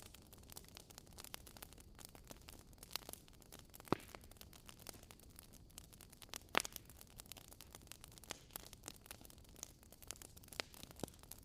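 Wood fire crackling in a fireplace: a steady patter of small crackles, with two louder pops about four seconds in and about six and a half seconds in.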